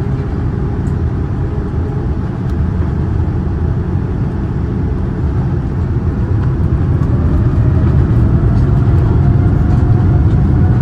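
Boeing 787-9 Dreamliner cabin noise: a steady low rumble of the engines and airframe that grows gradually louder, with a faint rising whine in the second half.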